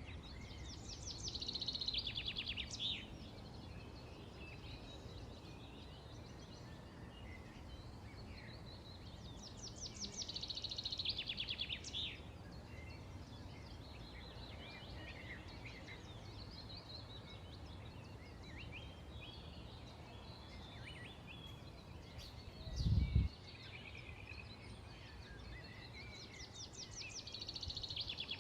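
Songbirds singing: a fast trilled song of rapidly repeated high notes, each run two to three seconds long, comes three times about ten seconds apart, with scattered short chirps in between over a steady low background noise. A brief low thump about two-thirds of the way through is the loudest sound.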